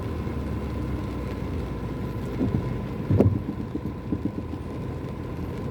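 Car idling in slow traffic, heard from inside the cabin as a steady low rumble, with one sharp knock about three seconds in.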